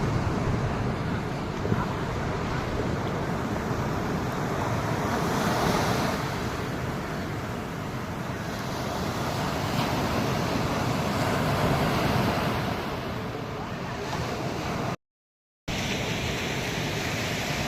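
Ocean surf washing onto the beach, a steady rush that swells and eases, with wind on the microphone. The sound cuts out completely for a moment near the end.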